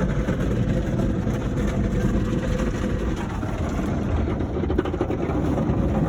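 Automatic car wash machinery working over the car, heard from inside the cabin: a loud, steady rushing noise with a low rumble.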